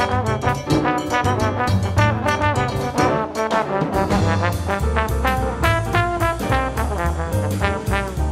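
Brass music with trombone and trumpet playing quick successive notes over a low bass line.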